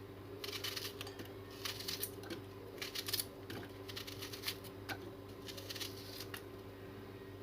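Onion being finely chopped: faint, irregular clicks and knocks, several a second, over a steady low hum.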